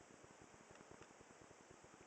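Near silence: a faint low flutter with a couple of faint ticks.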